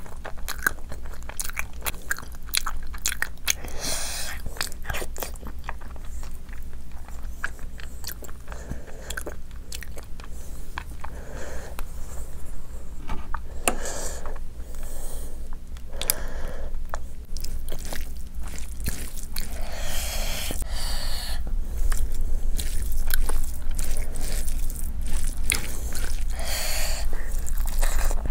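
Close-miked eating of rice and curry by hand: wet chewing with a steady stream of small lip-smacks and mouth clicks. A few louder, longer wet sounds come in about four seconds in, around the middle, and twice near the end.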